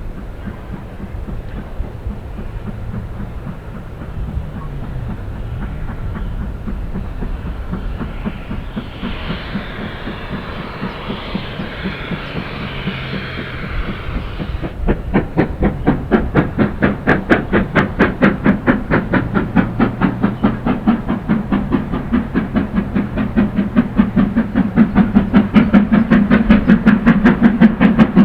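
Steam locomotive working a train. A hiss of steam comes in the middle, then the sharp exhaust beats start about halfway through and grow louder and quicker as it draws near.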